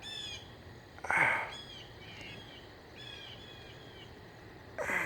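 Blue jays calling in the trees: a harsh, noisy call about a second in and another near the end, with thinner repeated chirps in between.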